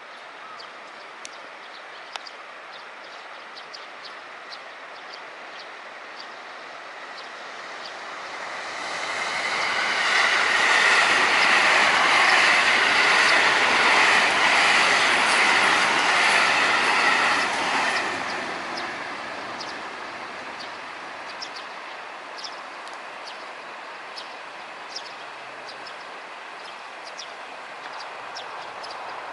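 Electric commuter train crossing a concrete railway bridge, the wheel-on-rail running noise building as it approaches. It stays loud for about eight seconds, drops away sharply as the train leaves, then fades out.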